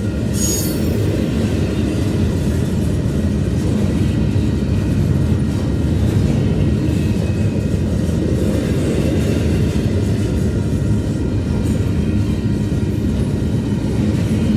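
Mixed/intermodal freight train rolling past with a steady low rumble of wheels on rail, with a brief high-pitched squeal about half a second in.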